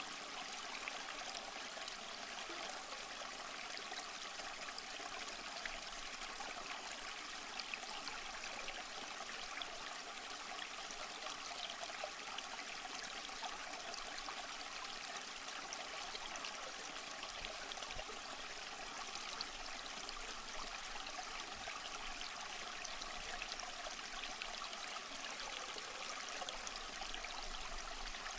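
Small stream flowing and trickling over rocks, a steady, even babble of water.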